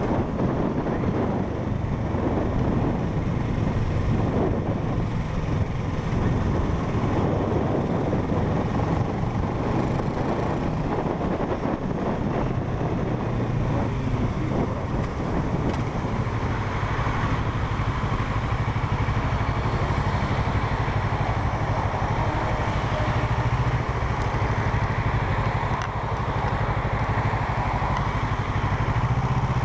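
Parallel-twin motorcycle engine running under way as the bike is ridden. Its note turns steadier in the second half.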